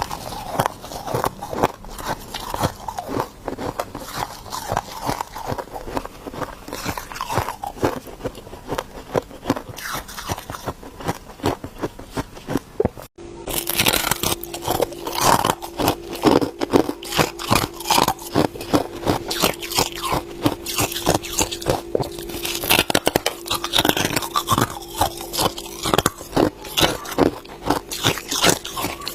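Ice being bitten and chewed close up: a dense, rapid run of crisp crunches and cracks. After a short break about halfway, a steady low hum runs underneath.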